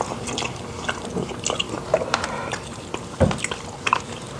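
Close-miked chewing and wet mouth sounds of people eating rice with gravy sauce, with scattered small clicks and smacks. About three seconds in there is a single low thump.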